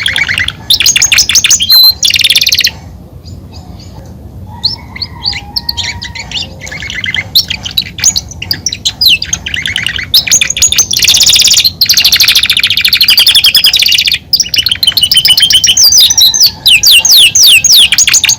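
Male domestic canary ("canário belga") singing: fast runs of repeated chirps and rolling trills, quieter for a moment about three seconds in, then a long loud trill in the second half.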